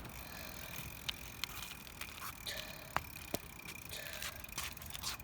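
Bicycle being ridden: scattered light clicks and rattles over a steady low rumble, with one sharper click about three seconds in.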